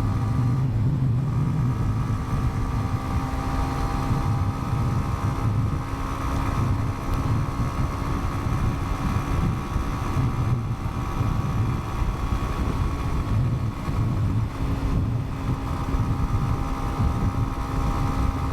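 Motorcycle running at a steady cruising speed: a constant engine and road hum with wind rushing over the microphone.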